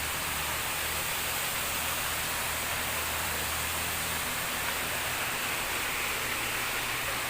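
Steady rushing hiss of water from a garden water feature, with a faint low hum underneath.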